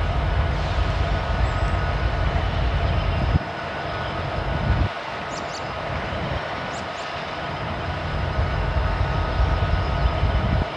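Freight train rolling past, a steady rumble of cars on the rail with a heavy low rumble that drops off sharply about five seconds in and builds back later.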